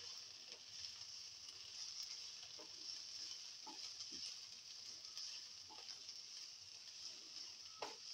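Bitter gourd slices frying in oil in a coated pan with a faint steady sizzle, being fried until crisp. A spatula stirs them, scraping and tapping against the pan several times, the sharpest near the end.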